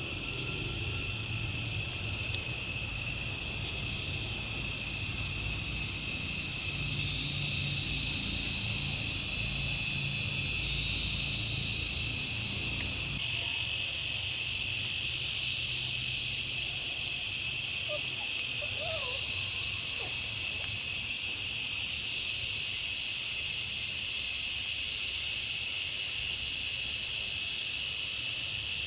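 Steady chorus of calling insects, a high continuous shrill. A louder, higher layer joins about seven seconds in and cuts off suddenly around thirteen seconds, together with a low rumble.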